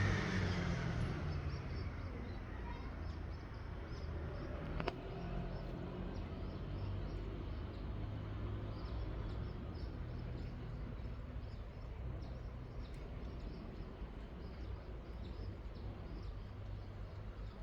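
Outdoor ambience: small birds chirping in short repeated notes over a steady low rumble, as the noise of a passing vehicle fades away at the start. A single sharp click about five seconds in.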